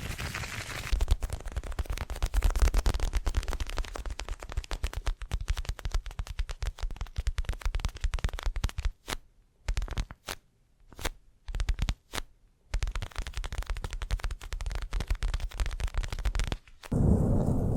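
Rapid close-miked ASMR tapping and scratching: a dense run of fast clicks that stops for a few seconds in the middle, leaving only a handful of single taps, then resumes. Near the end it gives way to a steadier, lower rustling sound.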